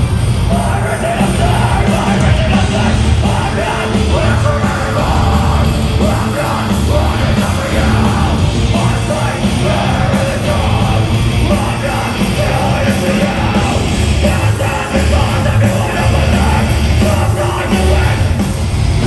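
Heavy band playing live, with a screamed or yelled vocal over distorted guitars and pounding drums.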